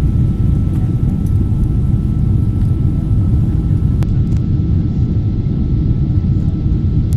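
Boeing 777-200ER cabin noise under way: a steady, deep rumble of the engines and airflow with a faint steady whine above it, and one small click about four seconds in.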